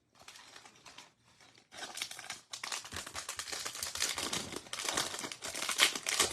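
Trading card pack wrapper crinkling and tearing as it is opened by hand, soft at first and then a continuous louder crackle from about two seconds in.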